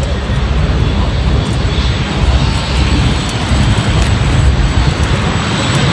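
Polish licence-built MiG-17F jet fighter flying its display, its jet engine making a loud, steady noise with a heavy low end.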